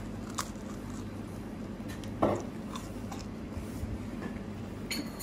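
Someone chewing a mouthful of cannolo, with small crisp clicks from the fried shell and one louder crunch a little over two seconds in. A steady low hum runs underneath.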